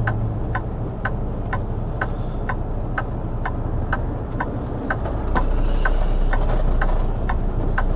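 Semi truck's diesel engine idling, heard from inside the cab, with a regular clicking from the turn-signal flasher about three times a second. The engine's low rumble grows louder about five seconds in.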